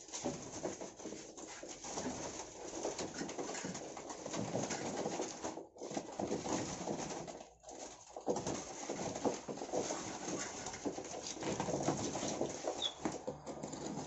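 Wild-caught songbirds in a small enclosure, calling and moving about amid continuous scratchy rustling, with two brief dropouts and one short high rising chirp near the end.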